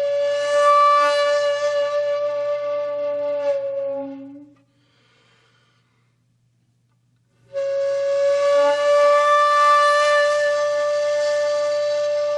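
Background music of long held flute-like notes, which breaks off into silence for about three seconds midway and then comes back on a held note.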